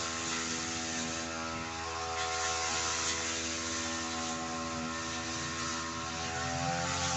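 Petrol brush cutter engine running steadily at high revs, with a slight dip in pitch near the end.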